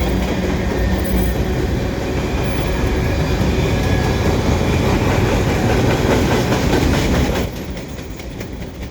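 Freight cars of a passing freight train rolling by, steel wheels clattering over the rails. The sound is loud and steady, then drops off sharply about seven and a half seconds in.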